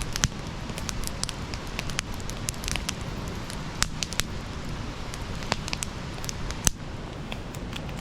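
Wood campfire burning: irregular sharp crackles and pops over a steady low rumble of the flames, with one louder pop late on.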